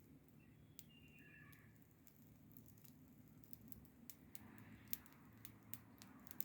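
Wood fire crackling faintly: irregular sharp pops and snaps, the loudest about five seconds in and at the very end. A brief faint descending whistle-like sound just after the start.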